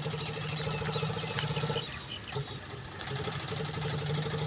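A motor vehicle's engine running steadily with an even low hum, dropping off about two seconds in and picking up again near the end.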